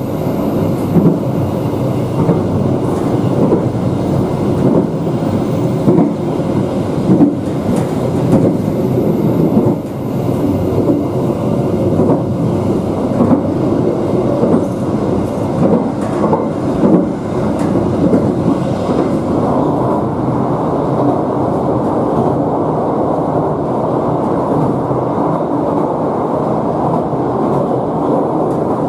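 Passenger train running along the line, heard from the rear of the last car: a steady rumble of steel wheels on the rails. Irregular louder clatters come through the first two-thirds, and the run is smoother near the end.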